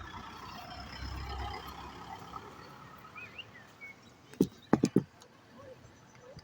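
Outdoor background noise with a low vehicle rumble that swells about a second in, then four sharp clicks in quick succession a little after four seconds in.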